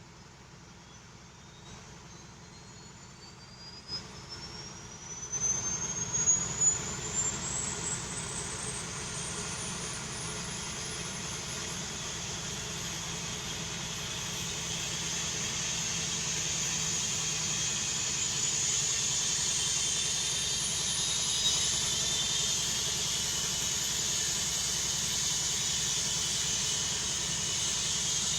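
Helicopter turbine engine starting up: a high whine rises steadily in pitch as it spools up and grows louder, with a few brief louder spikes around six seconds in.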